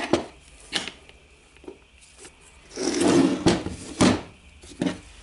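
Parts of a dismantled diamond core drill being handled on a workbench: several sharp knocks and clunks, with a longer scraping noise about halfway through.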